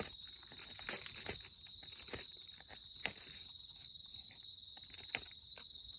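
Small campfire crackling, with scattered sharp pops, about five clear ones, the loudest about three and five seconds in. Under it runs a steady, high insect trill.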